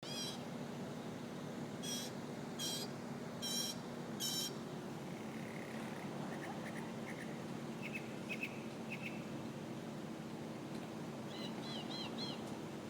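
Northern mockingbird singing: short phrases each repeated several times before switching to a new one, first five loud repeated notes, then a softer trill, then runs of four and three notes. A steady low hum lies underneath.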